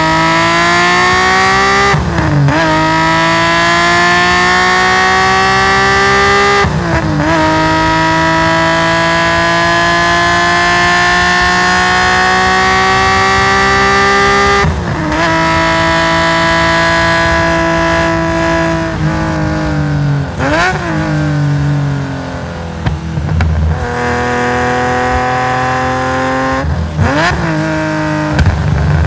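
Race-tuned Nissan S20 twin-cam straight-six in a Hakosuka Skyline GT-R at full throttle, with a loud straight-through exhaust. It pulls hard up the rev range with three quick upshifts through its sequential gearbox. Then it comes off the throttle with sharp throttle blips on the way down the gears, and picks up hard again near the end.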